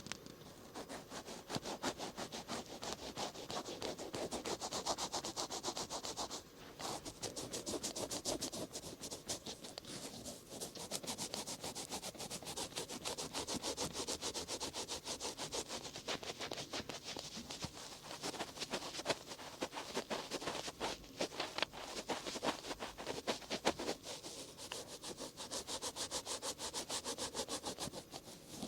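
Cotton swab rubbing and scratching over the outer ear of an ear-shaped binaural microphone in quick, continuous strokes. There are short breaks about six and a half seconds in and again around twenty-one seconds.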